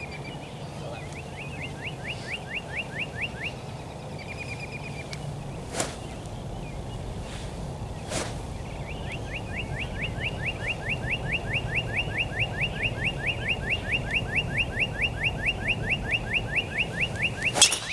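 A bird calls in long, rapid series of short falling notes, about five a second. Near the end a golf driver strikes the ball off the tee with one sharp click.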